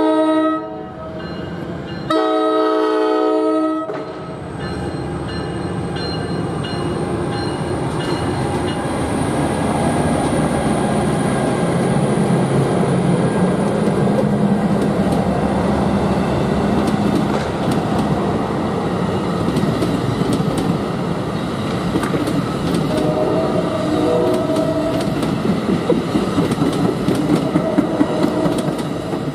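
NJ Transit diesel locomotive horn sounding a short blast, then a longer one about two seconds in. The train of bilevel coaches then runs past with a steady rumble, its wheels clicking rapidly over the rail joints near the end.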